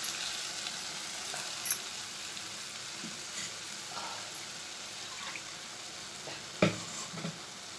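Chopped ridge gourd, onion and tomato sizzling steadily in oil in a steel pan, with two short knocks, a small one about two seconds in and a louder one near the end.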